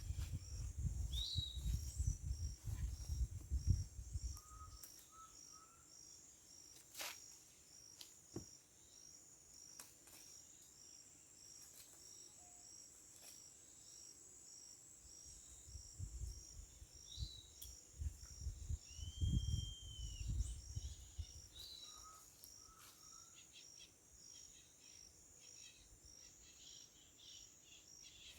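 Steady, evenly pulsing high-pitched insect chorus with scattered short bird calls. Low rumbling noise on the microphone sounds for the first few seconds and again around the middle.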